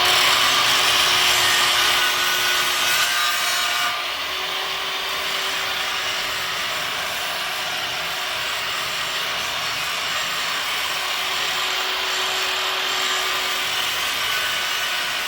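Angle grinder's disc grinding against a workpiece. The noise starts abruptly, is loudest for the first four seconds, then runs steadily a little quieter, with a faint steady hum under it.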